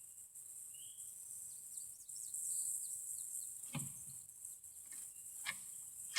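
Steady high-pitched insect drone with scattered bird chirps. A few light knocks come in the second half, the sharpest at the very end.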